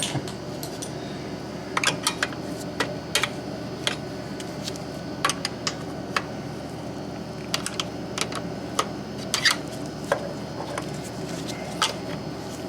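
Hand tools and metal parts clinking and clicking against a Beckett oil burner's housing and fittings as the burner is opened up to reach the nozzle line. The clicks come irregularly, in small clusters.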